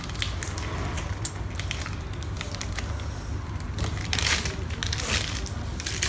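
People chewing and crunching crisp fried fish cake close to the microphone, with quick crackles and small clicks of forks on bowls and trays.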